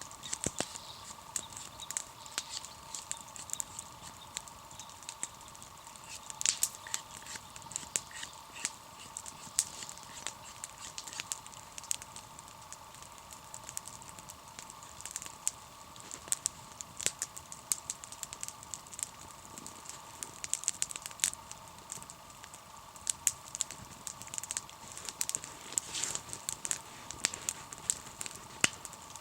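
Wood campfire crackling, with irregular sharp snaps and pops of varying strength over a steady faint hum.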